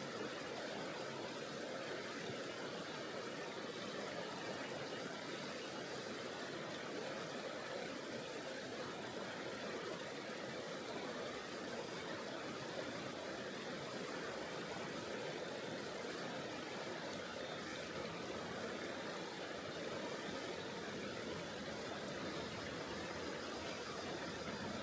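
River water flowing over a rocky bed: a steady, unbroken rush of water.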